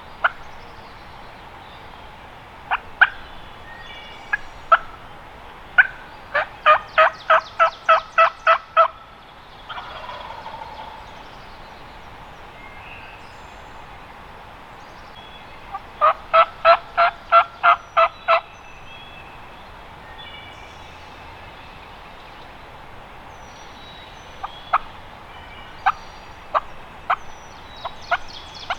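Wild turkey hen yelping: two runs of about eight evenly spaced yelps, a few seconds apart, with single clucks scattered before, between and after them.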